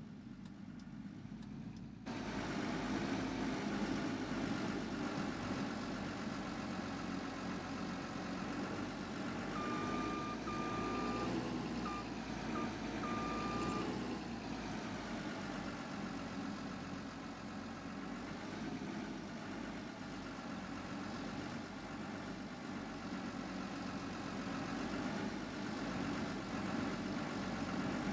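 Heavy truck engine running and revving, its pitch rising and falling; it gets louder about two seconds in. From about ten seconds in, a steady high beeping tone sounds several times over a few seconds.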